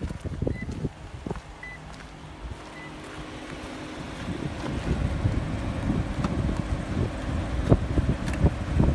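Wind buffeting the microphone, growing louder after a few seconds, with knocks from the phone being handled and three short high beeps near the start.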